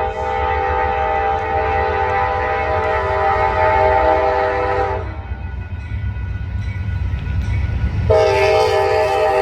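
Amtrak P42DC diesel locomotive's horn sounding two long blasts, a chord of several steady notes: the first lasts about five seconds, the second starts about eight seconds in. The low rumble of the arriving train runs underneath.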